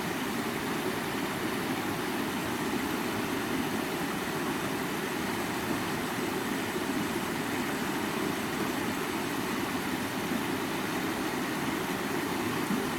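Water of a stream running steadily over rocks, a continuous even rushing with most of its weight in the lower-middle range.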